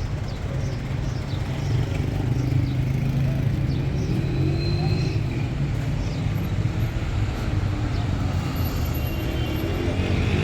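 Car running steadily, with a continuous low engine and road rumble.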